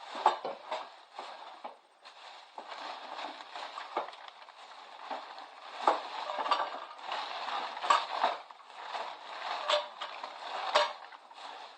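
Plastic and paper packaging crinkling and rustling as items are handled and sorted for recycling, with scattered clinks and knocks of things being set down.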